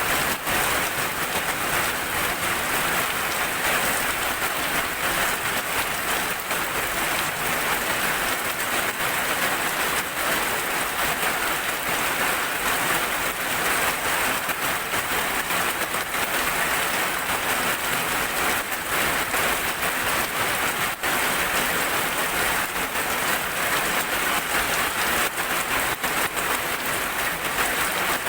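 Steady rain falling, an even wash of drops with no break or change.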